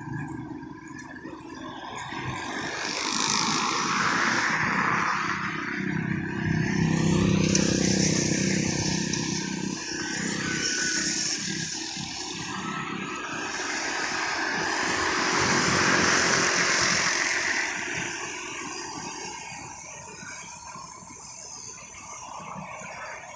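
Road traffic: vehicles passing one after another, the noise swelling as each goes by and fading away.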